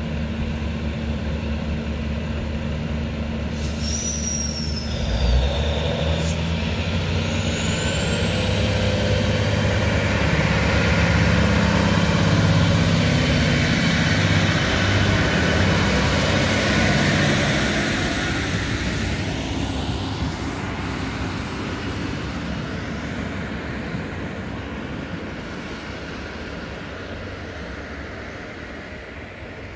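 Diesel train passing: a locomotive engine hums, then the train rumbles by, growing louder and then fading. A steady high-pitched squeal sets in about eight seconds in and carries on as the train draws away.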